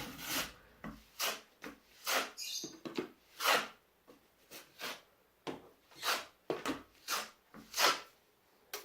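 Drywall knife scraping joint compound across paper tape on a wall in short, irregular back-and-forth strokes, about one or two a second.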